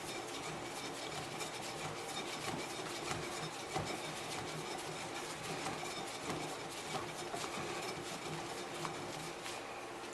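Metal clamp being fitted and tightened: scraping and small clicks of metal parts rubbing against each other, with a sharper knock about four seconds in.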